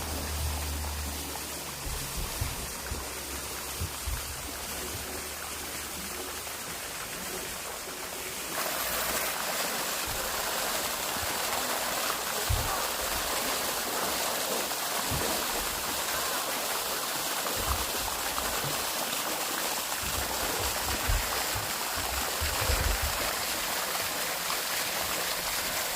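Running water, a stream or small cascade, as a steady rushing that grows louder and fuller about eight seconds in, with a few brief low thumps underneath.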